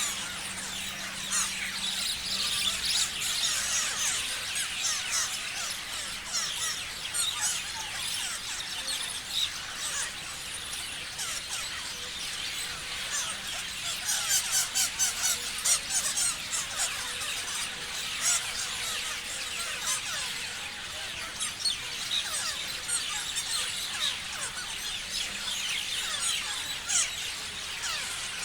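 Many parrots chirping and screeching at once in a dense, unbroken chatter of short high calls, with a run of rapid sharp notes about halfway through.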